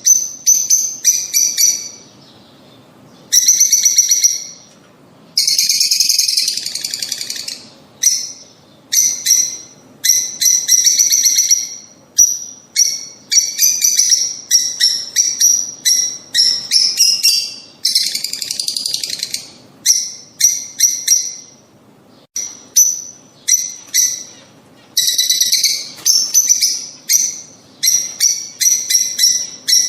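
Lovebirds calling: quick runs of short, sharp, high-pitched chirps, broken by a few longer stretches of dense chattering and brief pauses.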